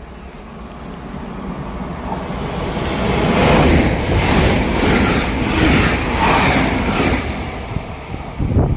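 A train approaching and passing close by: the rumble of wheels on rail builds over the first few seconds, then holds loud with a regular beat about twice a second as the wagons' wheels go by.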